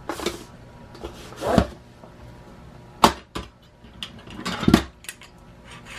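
Tools and parts being handled while working on a stiff motorcycle rear shock spring: a sharp knock about three seconds in, two longer rubbing sounds, and a few light clicks.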